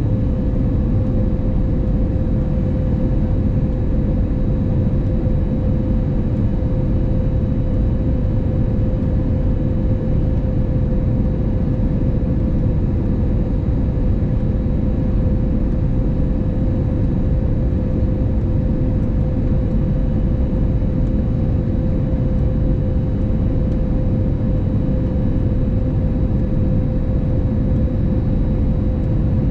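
Steady cabin noise inside an Airbus A320neo with CFM LEAP-1A engines: an even drone of engines and airflow, with a constant hum running through it.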